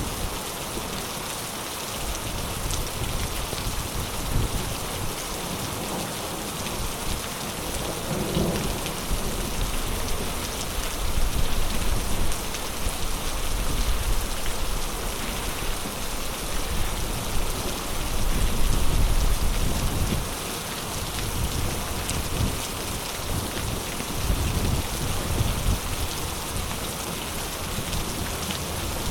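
Heavy rain pouring steadily, with low rolls of thunder rumbling through it. The rumbling swells from about a third of the way in, peaks around two-thirds through, and returns briefly near the end.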